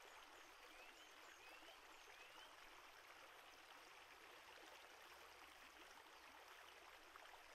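Near silence: a faint steady hiss of room tone, with three faint short rising chirps about a second apart in the first few seconds.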